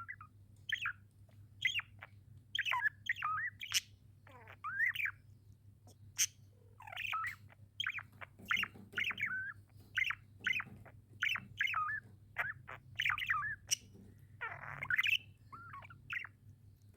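Budgerigars chirping in a quick, continuous run of short rising and falling calls, with sharp clicks among them.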